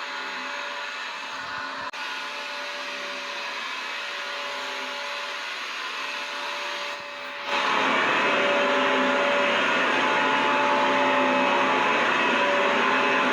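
Vacuum cleaner running steadily, a dense rushing noise with a motor whine. There is a brief dropout about two seconds in, and it turns noticeably louder and brighter about halfway through.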